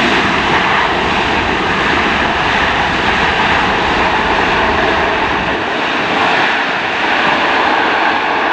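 Loud, steady jet engine noise from a large airliner close by.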